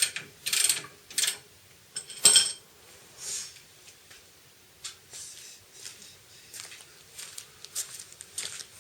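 Hand tools being worked on metal: a few quick rasping strokes at first, a ringing metal clink a little over two seconds in, then light clicks and handling rattles.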